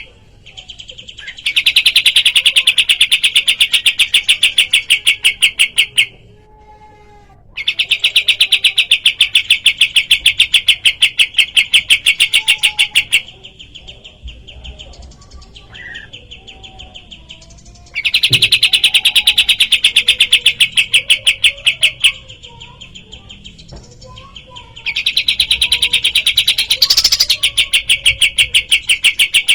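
Kapas tembak bird song: four long rapid-fire trills of evenly repeated high notes, each lasting four to five seconds, with softer chirps from other birds in the pauses between.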